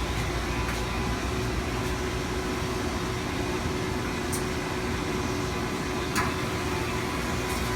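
Steady mechanical hum with a faint held tone. Two faint clicks come in the second half, the louder one near the end.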